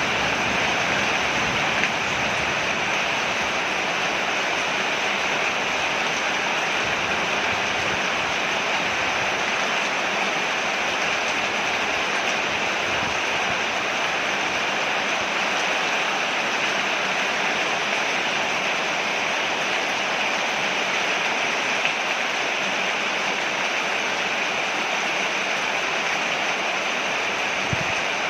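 Steady rain falling on a porch, an even, unbroken hiss.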